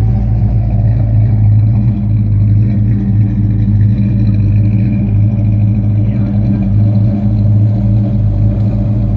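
Car engine running with a steady, deep exhaust rumble that holds at the same loudness.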